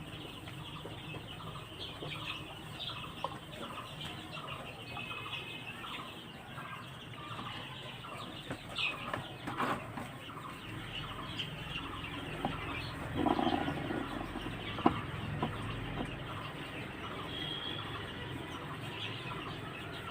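A flock of young Sonali chicks cheeping continuously, with a few sharp clicks partway through and a short louder clatter about thirteen seconds in.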